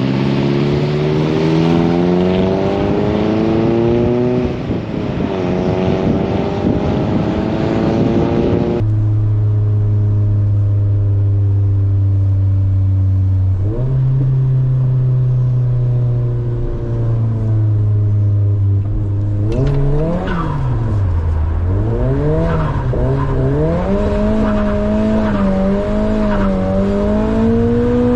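Nissan S15 Silvia drift car's engine revving hard, its pitch climbing again and again over a rushing hiss for the first several seconds. It then holds steady revs for about ten seconds, and its pitch swings quickly up and down in the last eight seconds as the throttle is blipped.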